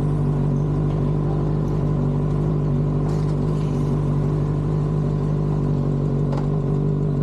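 Motorcycle engine running at a steady speed, holding one even pitch while cruising.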